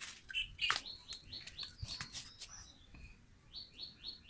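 A bird chirping repeatedly in short, high, falling chirps, irregular at first and then about four a second near the end. A few sharp clicks come in the first second.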